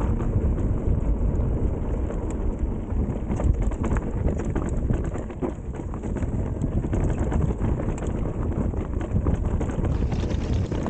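Specialized Turbo Levo e-mountain bike ridden over a rocky trail: heavy wind noise on the microphone and tyre rumble, with scattered light taps of rocks hitting the down tube.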